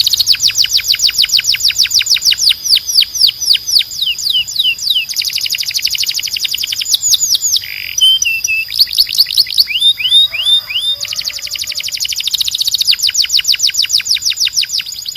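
Domestic canary singing: long fast trills of rapidly repeated falling notes, phrase after phrase at changing speeds, with a slower passage of spaced notes near the middle.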